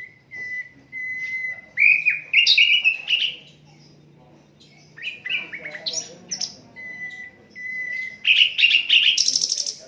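Sikatan londo flycatcher singing: short held whistled notes broken by bursts of quick rising chirps, ending in a fast trill, the loudest part of the song.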